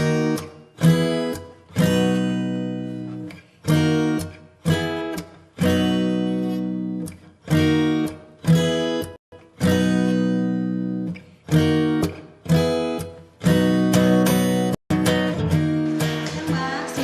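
Background music: strummed acoustic guitar chords, each ringing out and fading before the next.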